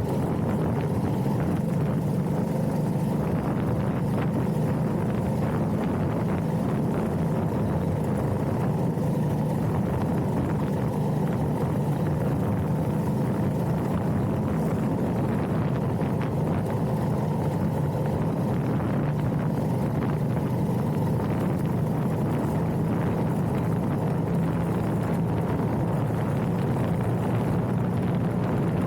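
Motorcycle engine running at a steady cruising speed, a constant low drone with no revving up or down.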